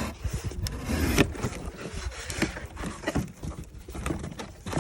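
Knife cutting through a cardboard box: irregular scratchy rasps and clicks, with a sharper crack about a second in.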